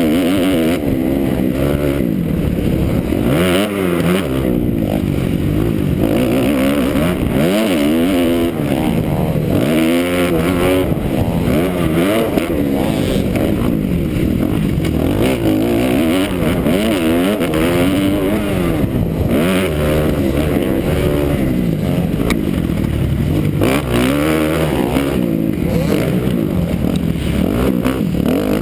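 2009 Kawasaki KX250F's single-cylinder four-stroke engine being ridden hard, revving up and backing off over and over, its pitch rising and falling every second or two.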